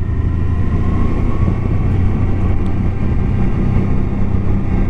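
Motorcycle engine running steadily under load while climbing a steep mountain road, a constant low drone with road and wind noise.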